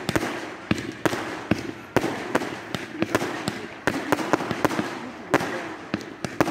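Fireworks display: aerial shells and rockets going off in a rapid, irregular run of sharp bangs, several a second, with crackling between them.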